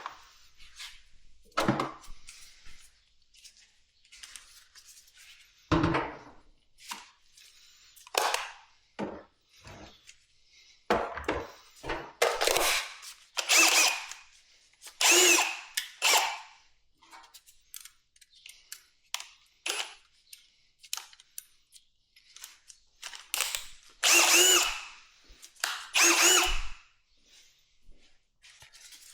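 Handheld power drill or driver run in short bursts, over a dozen separate spins, some of them with a steady whine.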